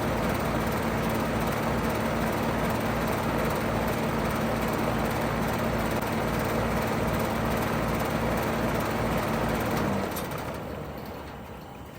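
2009 Payne PH13 five-ton heat pump outdoor unit running steadily in heat mode, with a low hum over fan noise. About ten seconds in it shuts down: the hum stops abruptly with a faint click, and the remaining fan noise fades away as the unit winds down.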